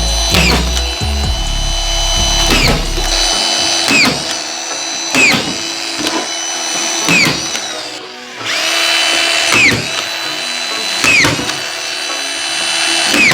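Hilti collated screw gun driving drywall screws into a ceiling sheet: the motor whines steadily, and about every second or two its pitch dips and recovers with a short clatter as each screw is driven home, roughly eight times.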